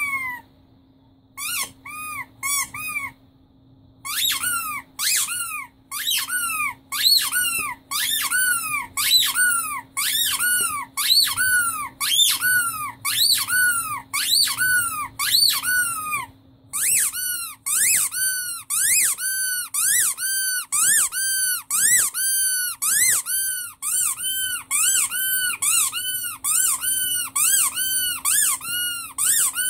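Rubber squeaky toy squeezed over and over, each squeak rising and then falling in pitch. The squeaks come about two a second with a few short pauses, then faster and more evenly from a little past halfway.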